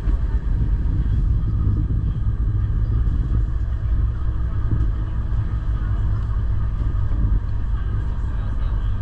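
Electric rack-railway train of the Gornergrat Bahn running, a steady low rumble.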